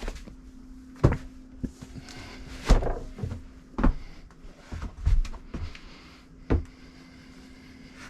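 Several knocks and thumps, irregularly spaced, over a steady low hum.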